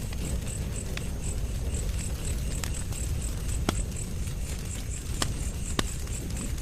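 Wood fire burning: a steady low rumble of flames with sharp, irregular crackles and pops, about half a dozen in a few seconds. A faint high-pitched pulse repeats about three times a second behind it.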